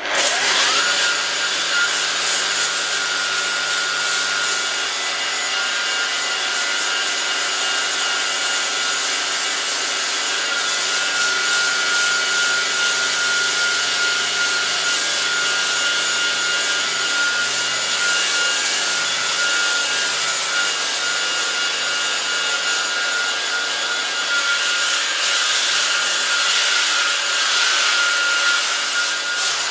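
Power tool with a sanding disc starting with a quick rising whine, then running steadily, sanding old paint and rust off the mower's metal: a steady high whine over a rough hiss.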